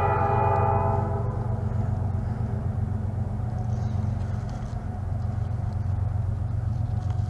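Train horn holding one long chord that fades away about a second in, leaving a steady low rumble.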